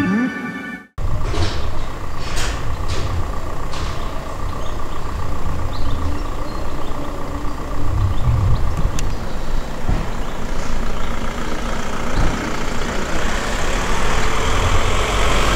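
Abarth 500 Group IV race car's air-cooled twin-cylinder engine idling, getting a little louder near the end.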